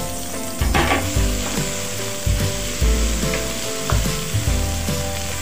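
Chicken and shiitake mushrooms sizzling in oil in a nonstick wok while a spatula stirs them, scraping and knocking against the pan every second or so.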